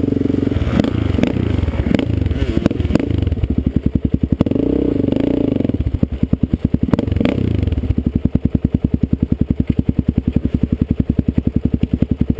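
Yamaha YZ125 two-stroke dirt bike engine running close by, rising and falling unevenly with a few clattering knocks for the first several seconds, then settling into a steady, rapidly pulsing idle.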